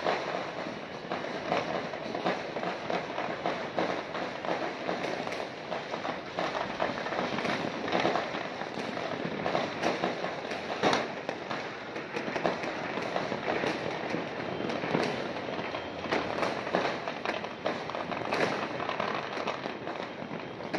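Many fireworks and firecrackers going off across a city at once: a continuous crackle of pops with frequent sharper bangs standing out.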